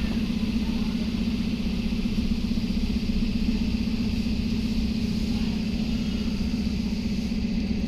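An engine running steadily, a constant low hum with no change in pitch.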